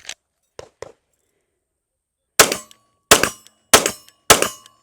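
IWI Masada 9mm pistol fired four times in quick succession, about 0.6 s apart, starting just past halfway, with a fifth shot at the very end. A few faint clicks come first.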